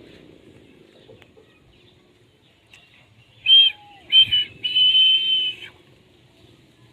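Indian ringneck parakeet giving three loud, high calls in quick succession about three and a half seconds in, the last one held for about a second.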